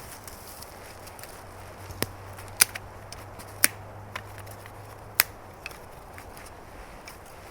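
Dry wood cracking in a few sharp, separate snaps, four of them loud, over a low steady hum.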